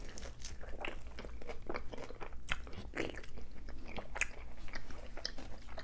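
A person biting and chewing birria tacos dipped in consommé: a run of irregular short clicks and wet mouth smacks.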